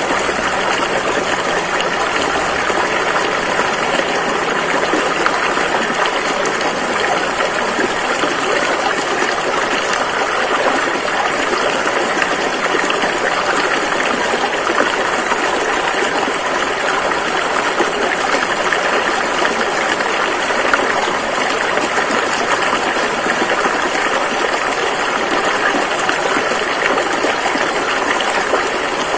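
Rushing river water flowing in a steady, unbroken loud rush.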